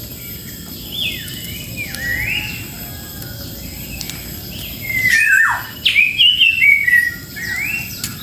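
Grey-cheeked bulbul (cucak jenggot) singing: short whistled notes that rise and fall in pitch, spaced out at first, then a louder, quicker run of notes from about five to seven seconds in.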